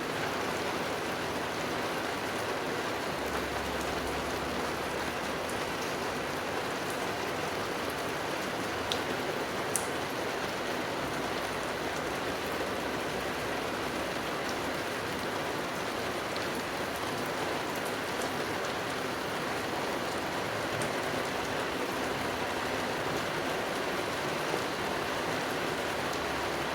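Steady rain falling on forest foliage, an even hiss with a few louder single drops standing out.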